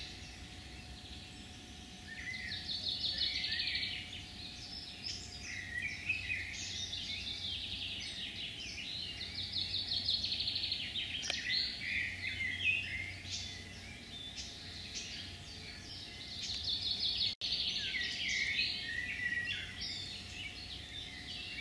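Songbirds singing in woodland, several overlapping songs of short chirps and quick trilled phrases, over a faint steady hum.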